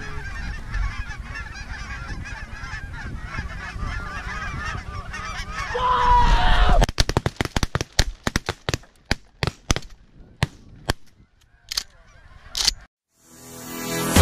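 A large flock of geese honking, many calls overlapping, for about seven seconds. Then a rapid volley of shotgun blasts, well over a dozen, comes thick at first and thins out over the next several seconds.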